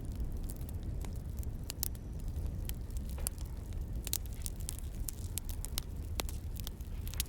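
Burning firewood crackling: irregular sharp pops and snaps over a low steady rumble.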